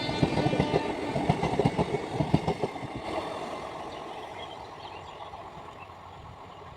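Passing Indian passenger train, its wheels clattering rapidly over the rail joints, the clatter dying away over the last few seconds as the train draws off.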